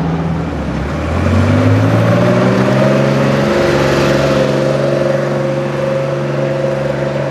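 A car's engine accelerating, its pitch rising for about a second and a half, then running steadily as the car drives past.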